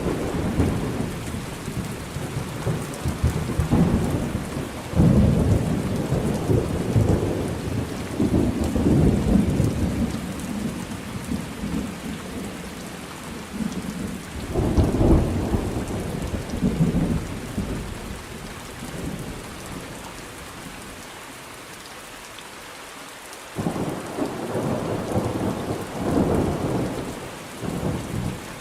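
Thunderstorm: steady rain hissing, with repeated low rolls of thunder rumbling over it. The thunder eases off for a few seconds about two-thirds through, leaving only the rain, then rolls in again near the end.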